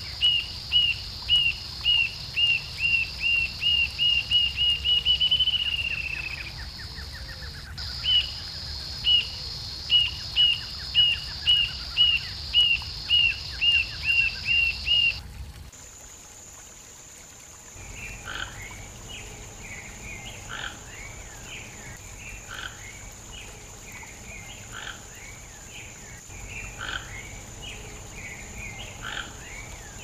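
Rufous-tailed jacamar singing: a series of high, sharp notes about two a second that speed up into a short trill and fall away about five seconds in, then start again. About halfway the song gives way to quieter, scattered calls from a toco toucan, with a steady high hiss behind both.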